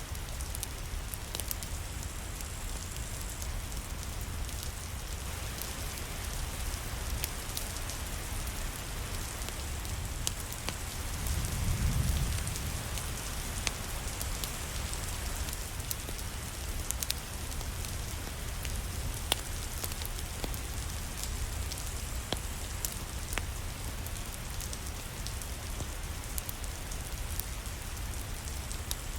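Steady rain falling, with scattered sharp clicks through it. A low rumble swells briefly around the middle.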